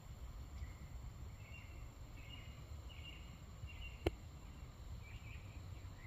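A small bird chirping faintly in a run of short notes, over a steady low rumble, with one sharp click about four seconds in.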